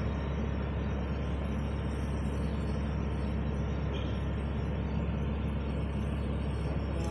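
Steady low rumble of vehicle engines and road traffic, unchanging throughout.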